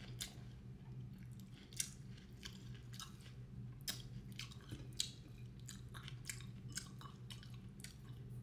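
A person chewing food close to the microphone, with soft wet mouth clicks and smacks at irregular moments, over a low steady hum.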